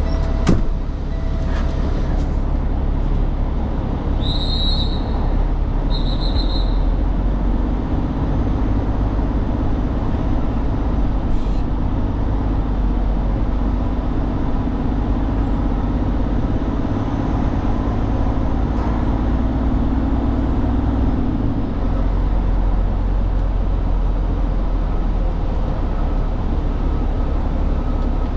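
Heavy truck's engine and driving noise heard inside the cab, a steady low rumble throughout. Two short high-pitched chirps sound about four and six seconds in.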